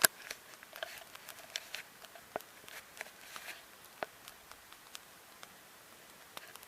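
Wood fire crackling: scattered sharp pops and snaps, irregularly spaced, with a loud crack right at the start.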